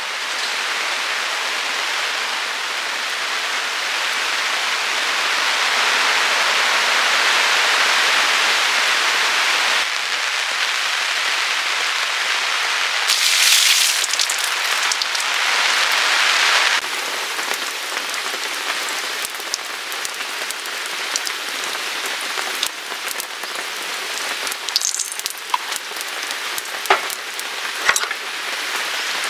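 Heavy rain falling, a dense steady hiss. It briefly grows harsher in the middle, then thins to a lighter patter with separate drops tapping distinctly.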